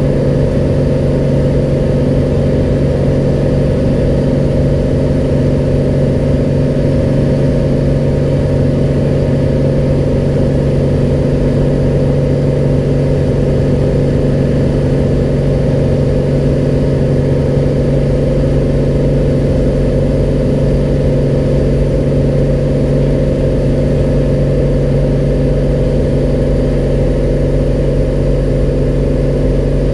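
Cessna 185's six-cylinder piston engine and propeller running steadily during takeoff, a loud, unchanging drone.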